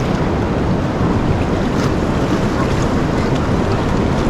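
Steady rushing of fast-flowing, storm-swollen river water, mixed with wind on the microphone.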